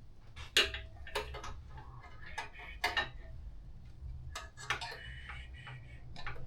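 Metal tools and parts clinking and clicking in irregular taps during hand work on a motorcycle exhaust, the sharpest click about half a second in.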